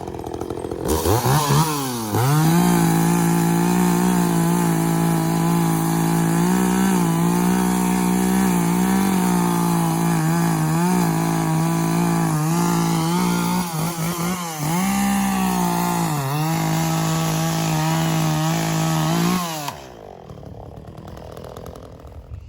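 Chainsaw revving up about a second in and running at high speed, its pitch dipping briefly several times, then shutting off near the end.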